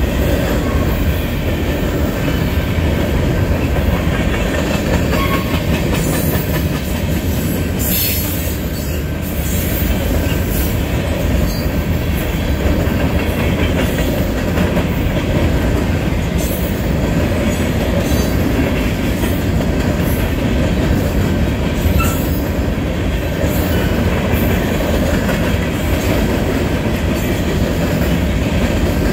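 Union Pacific freight train's covered hopper cars rolling steadily past close by: a continuous rumble of steel wheels on the rails, with sharp clacks at irregular intervals as wheels cross rail joints.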